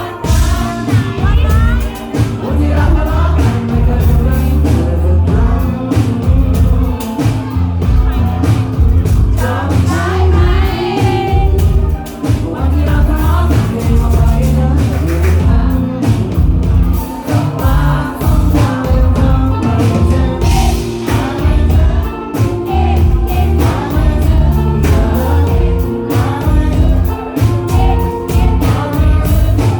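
A live pop-rock band playing a song with singing over a steady drum beat and heavy bass, loud throughout.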